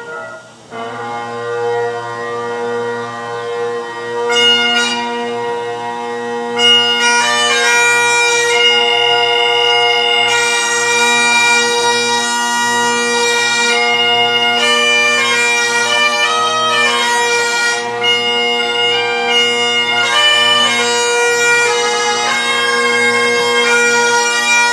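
Great Highland bagpipes striking up: the drones start a steady low hum about a second in, the chanter comes in a few seconds later, and from about seven seconds in it plays a melody over the unbroken drones.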